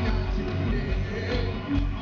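Live rock band performing at a concert: a dense, loud mix of drums, bass and electric guitar with a steady pulsing beat.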